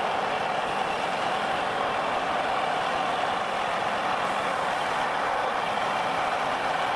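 Engine of a homemade log forwarder running steadily as the machine hauls a loaded trailer of logs, a constant drone with no sudden changes.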